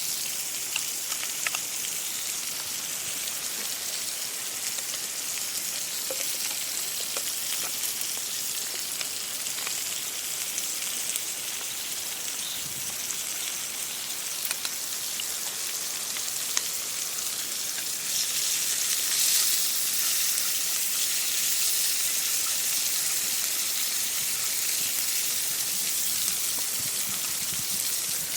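Food sizzling in hot oil over a fire: a steady frying hiss with scattered small pops and crackles, growing louder about eighteen seconds in.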